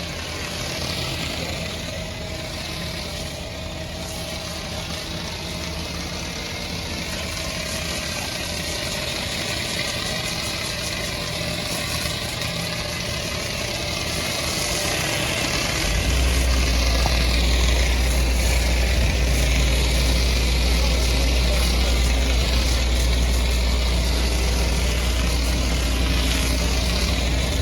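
An engine running at idle under a steady hiss. About sixteen seconds in, a deep low drone comes in and the whole sound gets louder.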